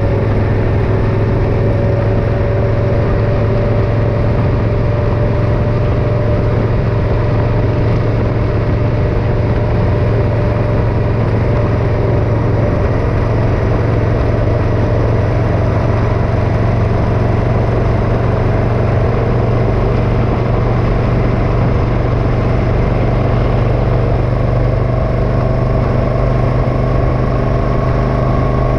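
Motorcycle engine running steadily under way, its pitch creeping slowly upward as the bike gradually picks up speed.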